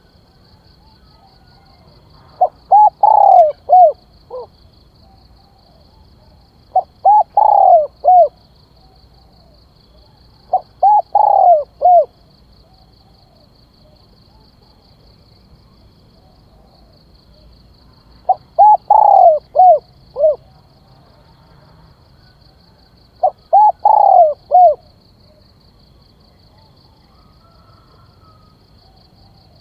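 Spotted dove cooing its multi-note calling phrase, repeated five times a few seconds apart, each phrase about a second and a half long. This is the calling song used to rouse and train decoy doves.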